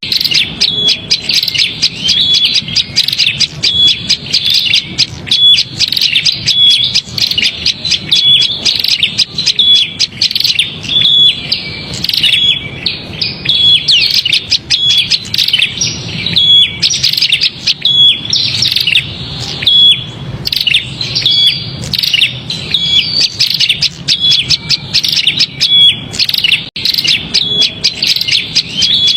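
Prenjak (prinia) calling in a noisy, agitated chatter of rapid high chips, with a short clear note recurring about once a second. It is a lure call played to draw small birds in.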